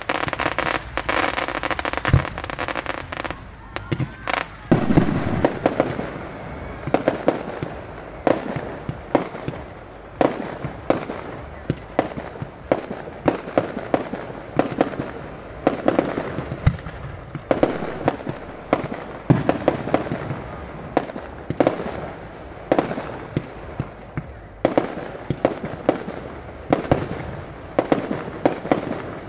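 Fireworks going off: a dense rush of crackling and hissing for the first few seconds, then a steady run of sharp bangs, about one or two a second, as shells burst low overhead.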